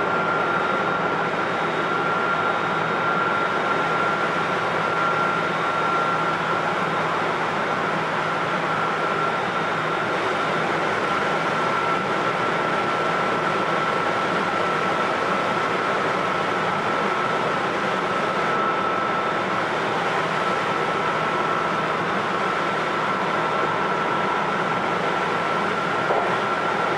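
Hokuetsu Express HK100 electric railcar running at a steady speed, heard from inside its motor car: even rolling noise with a steady high whine.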